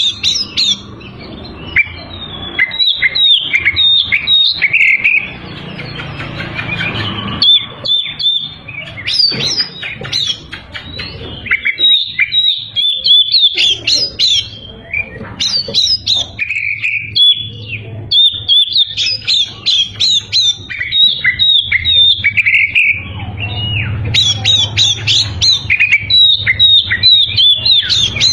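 Oriental magpie-robin (kacer) in full song: a rapid, varied run of loud whistles, chirps and trills, broken only by short pauses.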